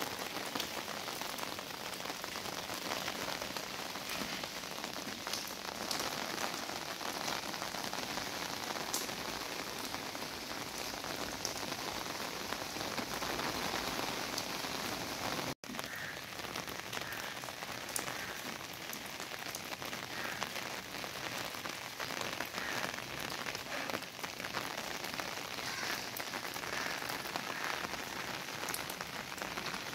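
Heavy rain falling steadily on wet paved ground, with scattered sharper drop hits. The sound cuts out for an instant about halfway through.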